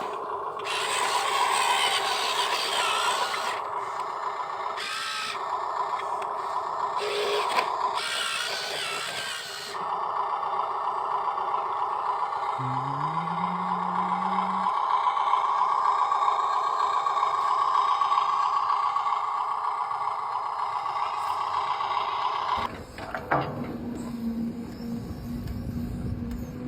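Steady whine of the small electric motors of RC construction models, with patches of scraping hiss during the first half and a short rising tone near the middle. The sound changes abruptly about three-quarters of the way through.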